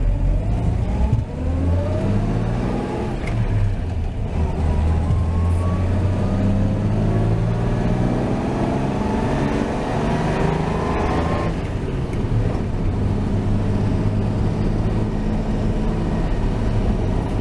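1949 Chevrolet 3100 pickup's 235 inline-six with dual exhaust, under way: the engine rises in pitch, drops back, then climbs again for several seconds as the truck accelerates, and settles into a steady cruise about two-thirds of the way in.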